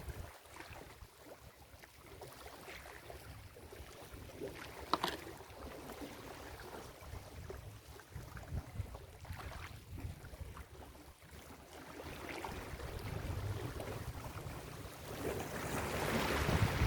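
Ocean waves washing on a beach, with wind rumbling on the microphone. The surf is low and quiet at first, then a wave builds and breaks louder near the end.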